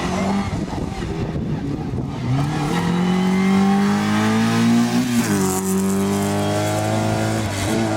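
Rally car engine revving hard under acceleration, its pitch climbing and then dropping sharply at upshifts, once about five seconds in and again near the end.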